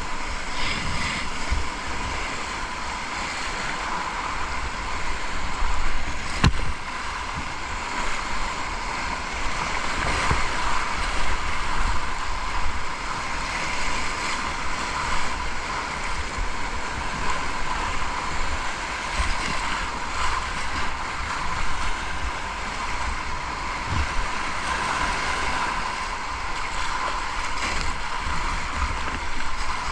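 River water rushing around a kayak moving down a river in flow, with wind buffeting the microphone. There is an occasional knock, one about six seconds in.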